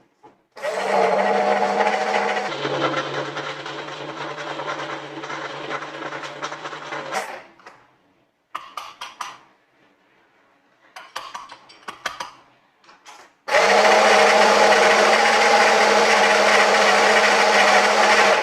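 Ariete Moderna espresso machine's coffee grinder grinding beans in two runs. The first lasts about six and a half seconds, its motor hum dropping to a lower pitch about two seconds in. A few seconds of light clicks and knocks follow, then a second run of about five seconds that stops abruptly.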